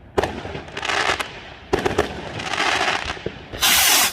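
Fireworks going off: a sharp bang about a quarter second in followed by crackling, a second bang just under two seconds in with more crackling, and a loud dense crackle near the end that cuts off suddenly.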